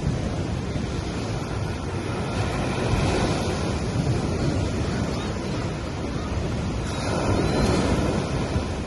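Sea waves breaking and washing up on a sandy beach, a steady surf wash that swells louder twice, about three seconds in and again near the end.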